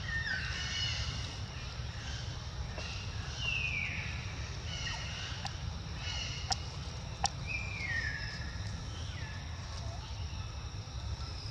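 Newborn baby monkey crying: a string of high, falling calls, one every second or so, over a steady low rumble. Two sharp clicks come just past the middle.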